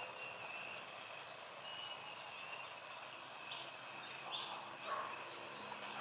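Steady outdoor background hiss with a faint high wavering tone, broken by three short bird calls a little past the middle.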